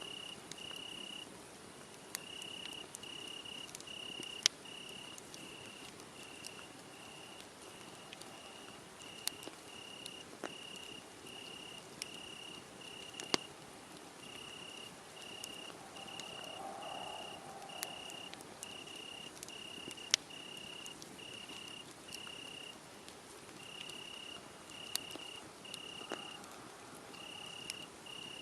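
A cricket chirping steadily, about two short high chirps a second with a few brief pauses, over a wood fire crackling with scattered sharp pops.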